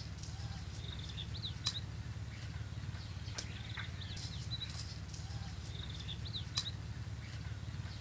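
Faint small-bird chirps, short high calls coming every second or two, over a steady low rumble, with a few sharp clicks.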